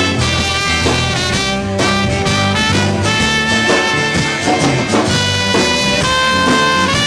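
A band playing an upbeat song: sustained instrumental chords over a steady drum beat.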